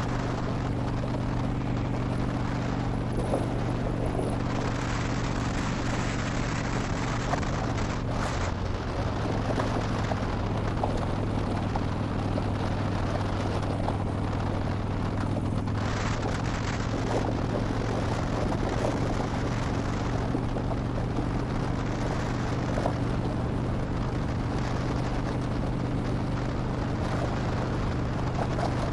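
Harley-Davidson Dyna Wide Glide's V-twin running steadily at cruising speed through slip-on exhausts with the baffles removed, under a steady rush of wind noise.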